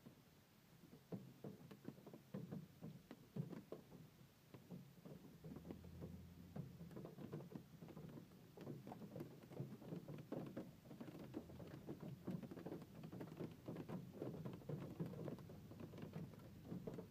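Hailstones striking hard surfaces in a dense, irregular patter of many small impacts, growing somewhat heavier after about eight seconds in.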